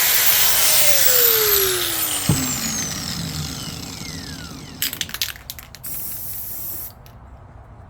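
Angle grinder grinding a steel mower blade edge, then switched off: its whine falls steadily in pitch as the disc spins down over about four seconds. A sharp knock comes midway through the spin-down, and a few clicks of handling follow it.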